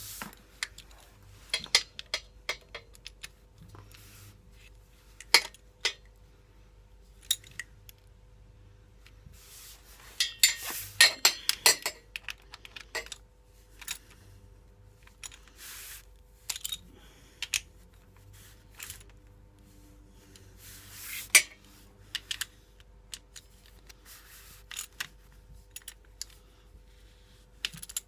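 Metal hand tools and bolts clinking and clicking in short, scattered knocks, with a busier run of rattling clinks about ten to twelve seconds in and one sharp clink about twenty-one seconds in.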